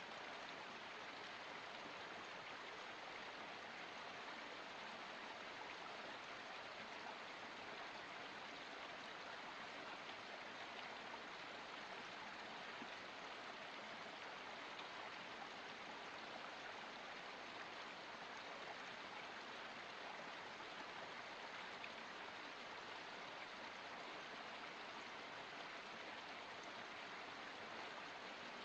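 Water running in a small forest stream, a steady, even rush.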